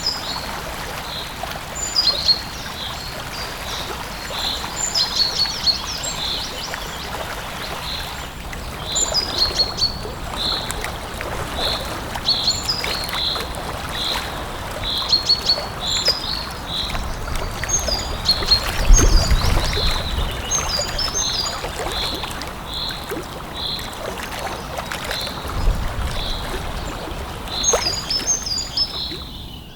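Birds calling outdoors: a short high note repeated at a steady pace, with brief quick chirps every few seconds. Beneath them is a steady natural background hiss, with a low rumble about two-thirds of the way in.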